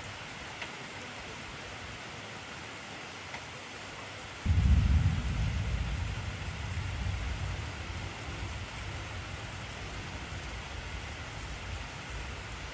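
Steady heavy rain hissing, with a clap of thunder about four and a half seconds in that starts suddenly and rumbles away over the next several seconds.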